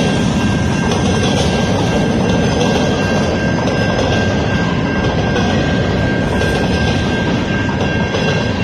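Freight train cars rolling slowly past: a steady, loud rumble of wheels on rail with a constant high tone over it, easing slightly near the end as the last cars go by.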